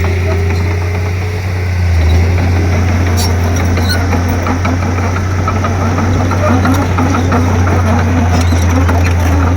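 Komatsu D31P bulldozer's diesel engine running steadily, with scattered knocks over the drone. The engine dips slightly about one and a half seconds in and picks up again.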